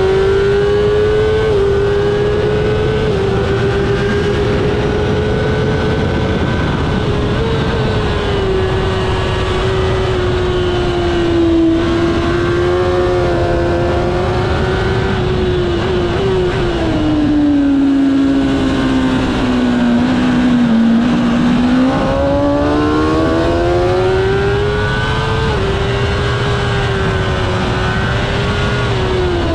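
Kawasaki ZX-10R inline-four sportbike engine held at high revs on a race track, heard onboard over heavy wind rush. There are a few quick gear changes near the start, then the revs sag slowly through a long corner around the middle and climb back, dropping again near the end.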